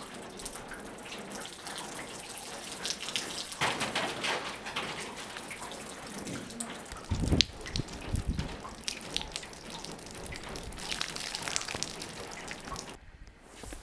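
Water dripping and trickling steadily in many small ticks over a background hiss, with a few louder low thumps about seven to eight seconds in.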